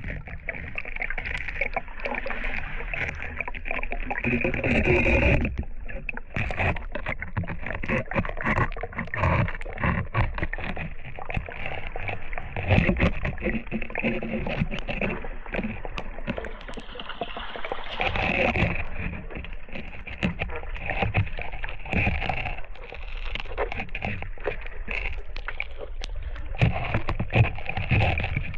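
River water splashing and churning around a raft, with many short splashes and knocks through a steady rush of water.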